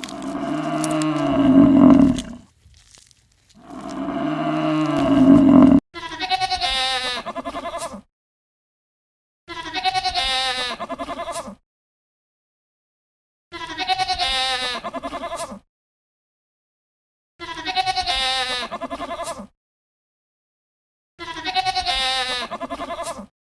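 Two long, low lowing calls like cattle, then five identical bleats about four seconds apart, each about two seconds long with a quavering tremble.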